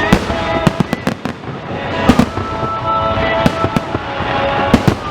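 Aerial fireworks going off in a rapid series of sharp bangs and cracks, in clusters every second or so, with music playing underneath.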